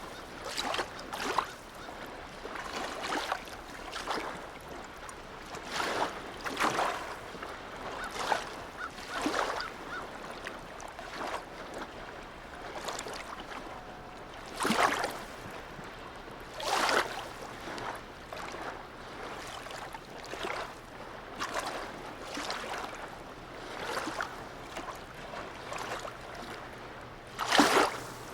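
Harbour seawater lapping and slapping against the shore or moored boats in irregular splashes every second or two, one louder splash near the end. A faint low steady hum comes in about halfway through.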